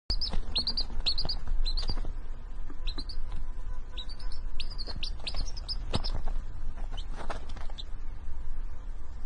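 A small bird chirping in quick runs of short, high chirps that drop in pitch, over a steady low hum with a few faint knocks. The chirping stops about eight seconds in.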